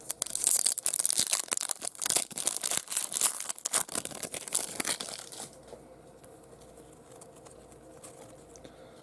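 Foil wrapper of a trading card pack being torn open and crinkled by hand, a dense crackling rustle that stops about five and a half seconds in, leaving only faint room hum and a few small clicks.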